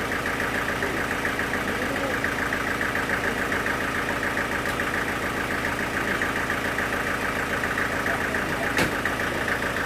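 Sawmill engine running steadily, with one sharp click near the end.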